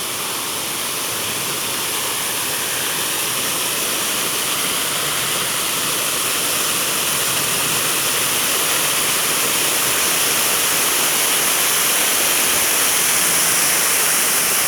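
Steady rush of falling or running water, a dense even hiss that grows gradually louder as it is approached.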